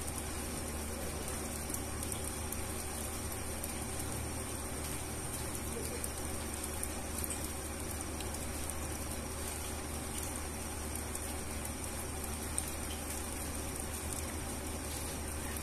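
Steady rain falling on wet concrete pavement, with scattered ticks of single drops. A steady low hum runs underneath.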